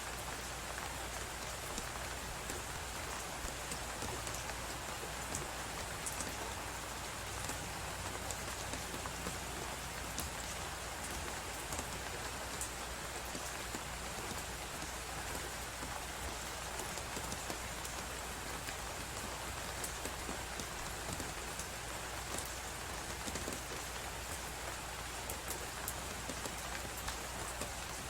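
Blizzard-and-crackling-fireplace ambience: a steady hiss of wind and snow with scattered small crackles from the fire, even and unbroken throughout.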